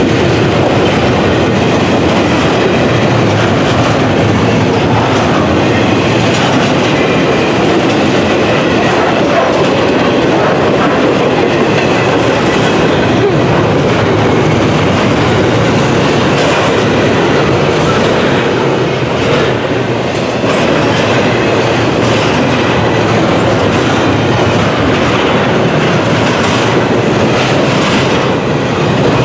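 Norfolk Southern double-stack intermodal train passing close by: the loaded well cars' wheels roll over the rail with a loud, steady rolling noise and rhythmic clickety-clack at the rail joints.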